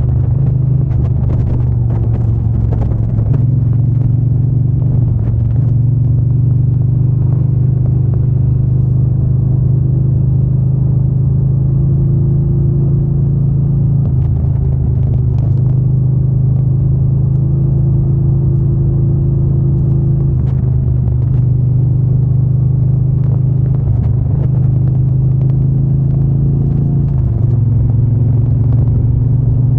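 Triumph Bonneville T120's 1200 cc parallel-twin engine and exhaust running steadily under way, its note dipping briefly several times as the throttle eases or it changes gear.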